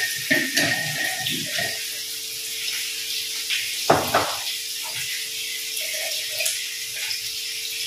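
Small onions frying in hot oil in a pan, a steady sizzle. Over it come a few clinks and knocks of a glass spice jar and a spoon, the sharpest a single knock about four seconds in.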